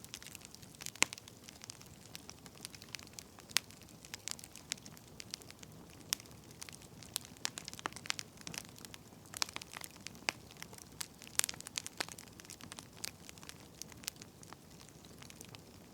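Wood fire burning, with irregular sharp crackles and pops, several a second, over a soft steady hiss.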